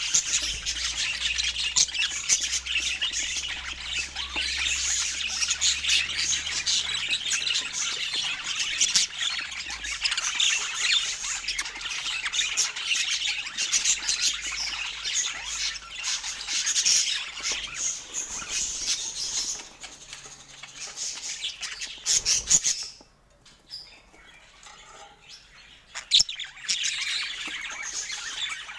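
Parakeets chattering and chirping busily, with sharp squawks mixed in. The calls fall away to a brief hush about 23 seconds in, then pick up again a few seconds later.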